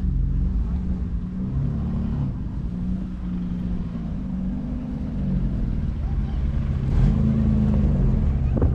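Car engines running at a car meet: a low rumble whose pitch shifts up and down, and grows louder about seven seconds in.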